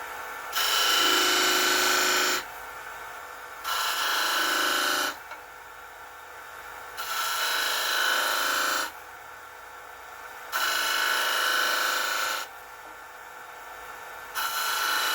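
A wood lathe running steadily, with a turning tool cut into the spinning wood five times for about two seconds each. Each cut gives a loud scraping hiss with a steady high ring in it. These are parting cuts into the blank.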